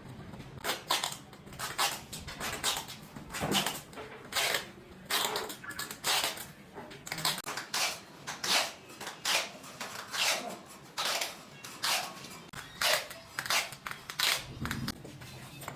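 Repeated sharp hammer blows, about one and a half a second, in a steady working rhythm.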